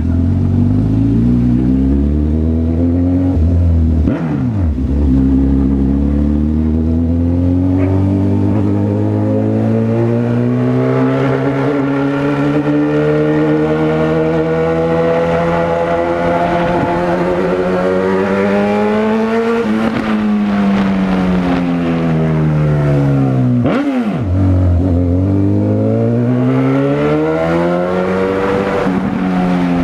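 Honda CB1000R's inline-four engine pulling under way, its pitch climbing slowly and steadily for about fifteen seconds. Near the middle the revs fall away, dip sharply at a shift a few seconds later, then climb again and fall near the end.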